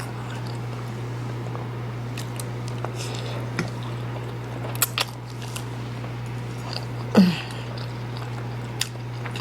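Close-up eating sounds of spicy instant noodles: wet chewing, smacking and scattered sharp clicks over a steady low hum. A short vocal sound falling in pitch comes about seven seconds in.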